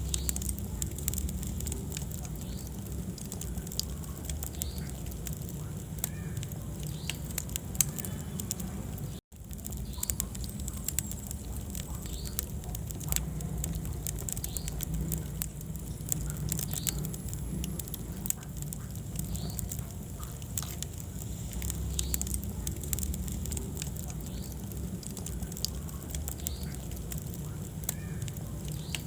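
Wood fire burning in a fireplace: steady low flame rumble with constant crackling and sharp pops, and a few faint high squeaks. The sound cuts out for an instant about nine seconds in.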